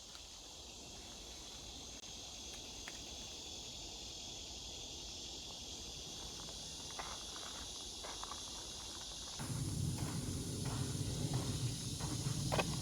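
Insects, crickets among them, chirring steadily in woodland. About nine seconds in the sound changes abruptly and footsteps begin, with scattered knocks and scuffs on the trail.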